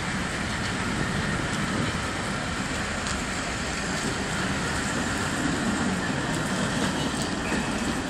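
Passenger coaches of a steam-hauled train rolling steadily past close by: a continuous rumble of wheels on rails, with a few faint clicks.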